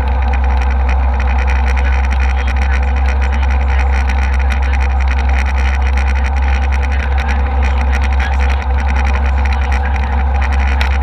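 Steady airliner cabin noise in flight: a loud, unbroken low rumble of the jet engines and air rushing past the fuselage.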